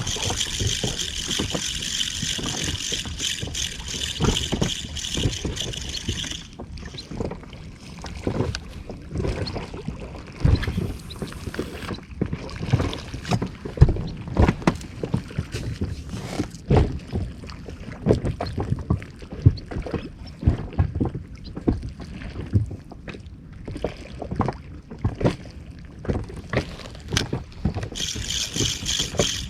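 Small inflatable boat rocking at sea, with water knocking and slapping against the hull in irregular low thumps. A rhythmic, pulsing mechanical whirr runs for about the first six seconds, stops suddenly, and starts again near the end.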